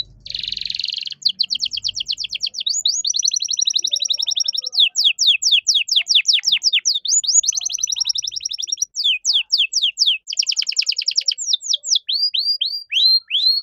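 Domestic canary singing one long, continuous song. It opens with a brief harsh buzz, then runs through fast trills of rapidly repeated notes and quick downward-sweeping notes, and slows near the end into a few separate downslurred whistles.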